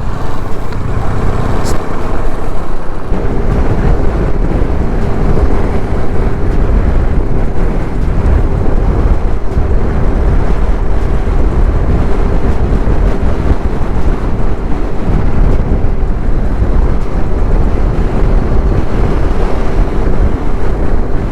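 Motorcycle riding at speed: loud wind buffeting on the microphone, with a faint steady engine hum underneath.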